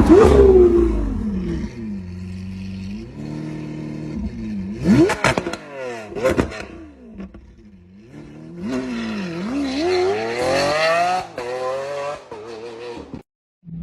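V12 supercar engine and exhaust revving. A rev falls away to idle, two sharp throttle blips follow about five and six seconds in, then the engine climbs steadily through the revs before lifting off and dropping back down.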